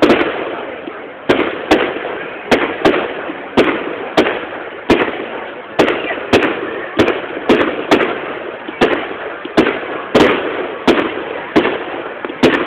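Firework display: a fast, steady run of loud bangs from bursting aerial shells, one or two a second, each dying away before the next.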